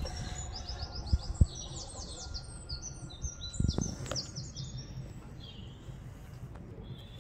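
A songbird singing a run of quick, high chirping and trilling notes for the first four seconds or so, then fading away. Over it come a few dull low thumps, the loudest about a second and a half in and another near four seconds.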